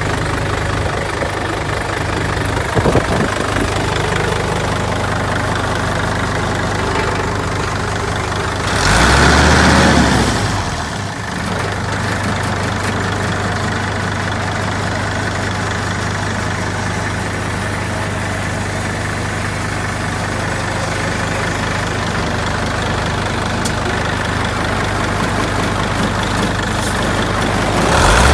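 Hino Ranger truck's diesel engine idling steadily, with one brief rev about nine seconds in.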